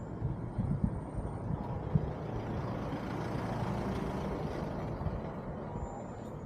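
A road vehicle going past: a broad rushing noise that swells to a peak around the middle and fades again, with a few low thumps in the first two seconds.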